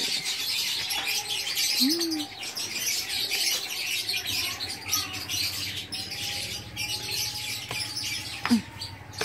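Small birds chirping busily and without a break, many high chirps overlapping. A faint low hum joins about four seconds in, and a short sharp sound stands out near the end.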